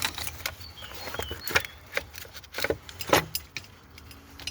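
Scattered sharp clicks and knocks of parts and tools being handled in a car's engine bay, as components are worked loose by hand; the loudest knocks come about one and a half and three seconds in.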